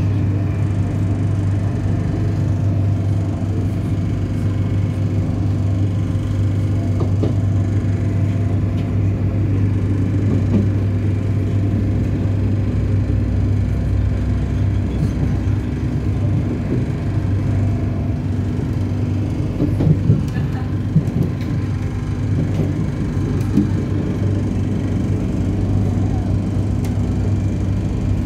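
Running noise heard from inside an NI Railways diesel multiple unit on the move: a steady low drone from the underfloor engine and drive over the rumble of wheels on the track, with a few short sharp knocks about twenty seconds in.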